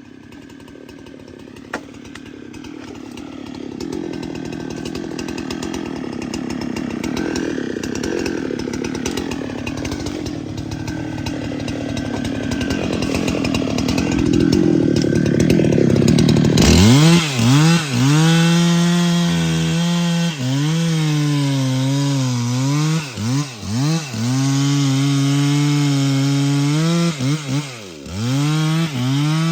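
Chainsaw running and cutting wood, growing steadily louder through the first half. About halfway in the sound changes abruptly to a clear engine note at high revs that keeps sagging in pitch and recovering as the chain bites into the wood.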